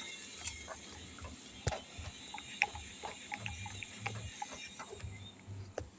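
R-410A refrigerant gas hissing steadily through the charging hoses while the unit is being pressurised for a leak test; the hiss stops about five seconds in. Small clicks and taps from handling fittings and tools are heard through it.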